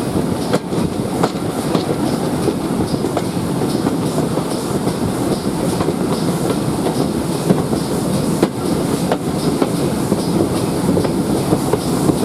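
Train behind GWR Prairie tank engine 5526 running along the track: a steady rumble with scattered sharp clicks from the wheels passing over rail joints.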